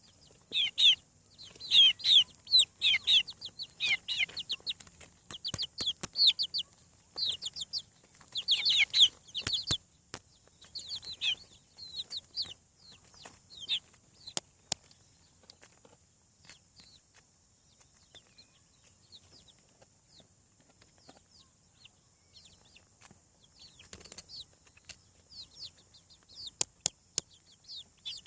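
Young chicks peeping: many short, high, falling chirps, dense for the first ten seconds or so and then thinning out. Scattered sharp clicks throughout, over a steady faint high hiss.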